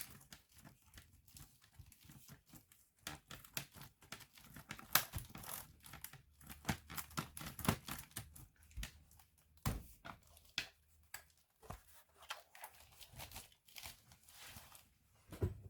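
Irregular small clicks, taps and scraping rustles of hands working on a laptop's plastic and metal parts, spaced unevenly with short pauses between.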